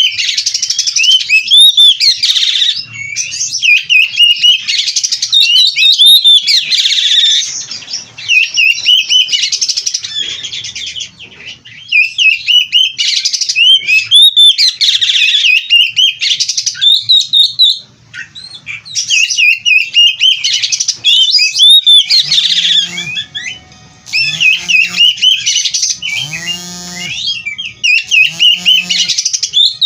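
Oriental magpie-robin (kacer) singing loudly in bursts of rapid, varied whistles and chattering phrases, with short pauses between them. In the last several seconds, lower-pitched repeated calls sound under the song.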